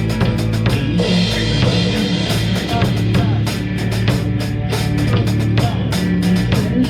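Drum kit played along with a rock song on playback: a steady beat of kick, snare and cymbals over the recorded track with guitar.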